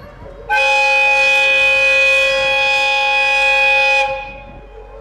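Horn of a TH2100-series diesel railcar sounding one long, loud steady blast, starting about half a second in and cutting off about four seconds in, as the train departs.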